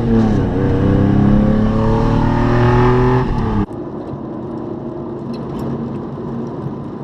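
A pickup's 3-liter engine under hard acceleration, its note climbing steadily for about three seconds, loud through a chopped-off muffler and a passenger-side exhaust leak. About three and a half seconds in, the engine note cuts off abruptly, leaving a quieter steady road noise.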